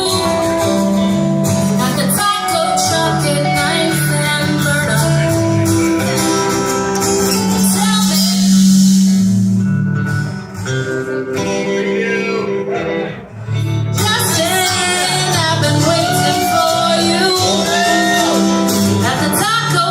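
Live rock band playing a song with guitar and singing. The music dips briefly twice, about ten and thirteen seconds in, and a singing voice comes up clearly from about fourteen seconds in.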